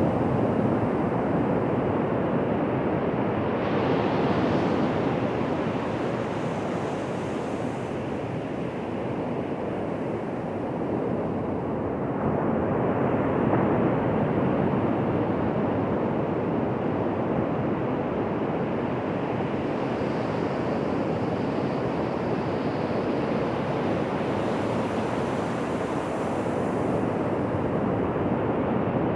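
Ocean surf breaking and washing on a beach, a continuous rush of water that swells a little louder a few times as waves come in.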